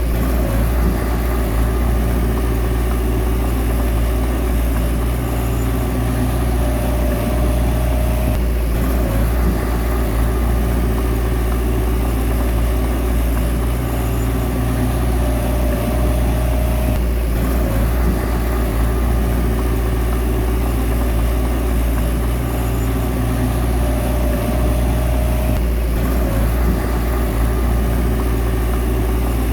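Bulldozer's diesel engine running steadily with a deep drone. A higher tone joins for a second or two about every eight and a half seconds, each time ending in a brief break.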